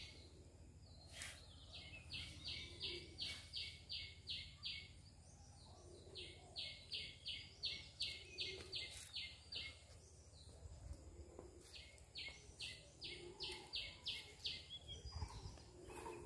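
A bird calling faintly in runs of short, evenly spaced high notes, about three or four a second, three runs in all.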